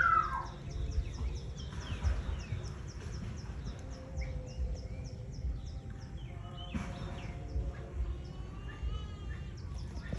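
Outdoor ambience: a high, thin chirp repeats about four times a second for the first six seconds, over a low rumble. A few faint pitched calls come later on.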